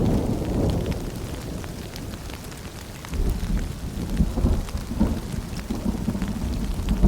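Steady rain pattering with a deep rumble of thunder underneath. The rumble fades over the first couple of seconds and rolls back in about three seconds in.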